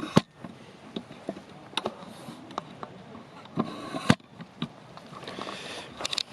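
Wood campfire burning, with irregular crackles and snaps. Two loud sharp pops come just after the start and about four seconds in, and there are brief hisses.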